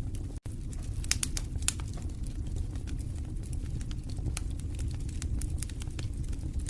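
Wood fire burning in a fireplace, crackling and popping irregularly over a steady low rumble of flames. The sound cuts out for an instant about half a second in.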